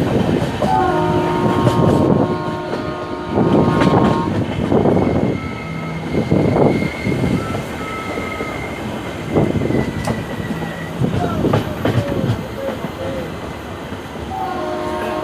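Passenger train running, heard from aboard a coach: wheels clattering over the rail joints in repeated heavy thuds. A horn sounds briefly about a second in and again near the end, and a long thin high wheel squeal runs through the middle.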